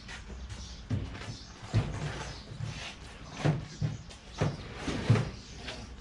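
A series of irregular knocks and thumps, about seven in six seconds, over a steady low background hum.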